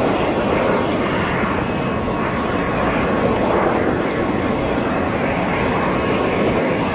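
Aircraft engine noise: a steady, even drone with no change in level.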